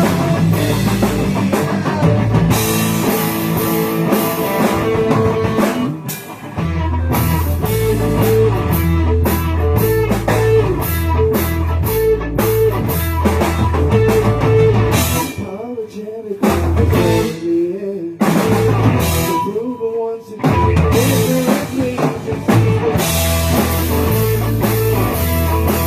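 Rock band playing an instrumental passage: drum kit, guitar and bass, with a few short breaks where the band stops and comes back in.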